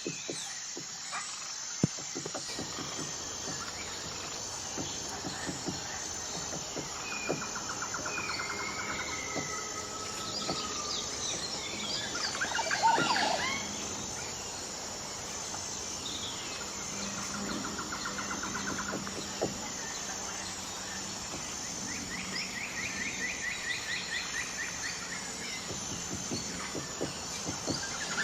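Outdoor woodland ambience: several birds call and trill over a high, evenly pulsing insect drone, with scattered light taps. A louder burst of mixed calls comes about halfway through.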